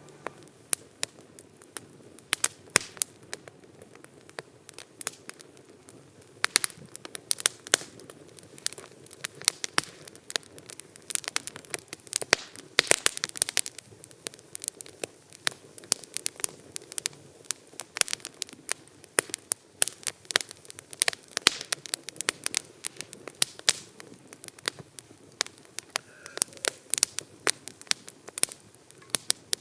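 Wood campfire crackling: irregular sharp pops and snaps over a faint low hiss, busiest a little before halfway.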